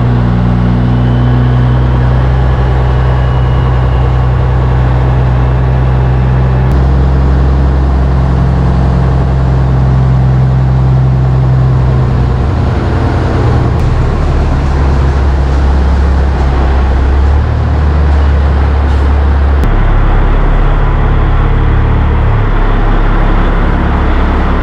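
Diesel semi-truck engine running steadily while the truck moves. The engine note steps up and down several times along the way.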